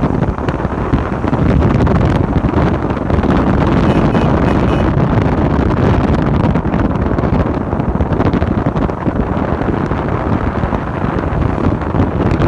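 Heavy wind buffeting on a phone microphone while riding a motorcycle, a steady low rumble that buries the engine and road noise. Four faint short beeps sound briefly about four seconds in.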